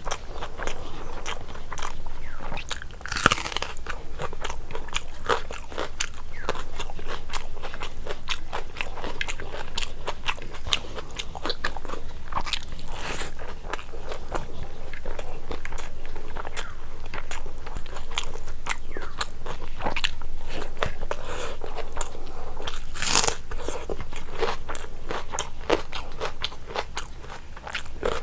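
A person eating biryani, with repeated biting, crunching and chewing sounds made up of many quick clicks and crackles.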